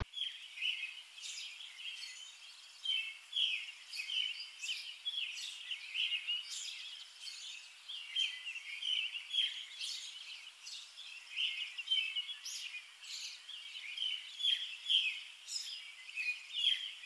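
Birds chirping and singing: many short, quick, overlapping high notes, with no low sounds under them.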